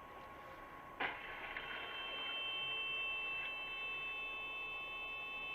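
A single sharp knock about a second in, then a steady, high electronic tone that holds without a break, over a fainter steady tone that runs underneath.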